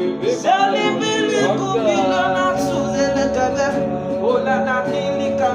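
Gospel worship music: a singer vocalises without words, with slides in pitch, then holds one long note from about a second and a half in, over steady instrumental backing.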